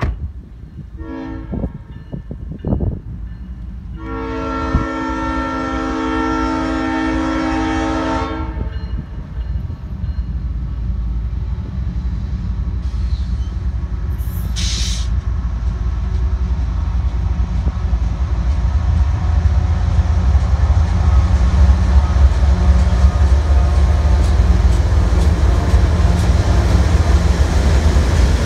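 Freight train's diesel locomotive horn sounding a couple of short blasts and then one long blast of about four seconds as the train approaches. Then the low rumble of the locomotive and its wagons on the rails grows steadily louder as they pass close by.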